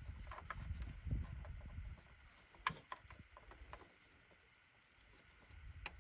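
Scattered light clicks and knocks of hand tools and parts being handled in a car's engine bay, over a low handling rumble for the first two seconds, then quieter.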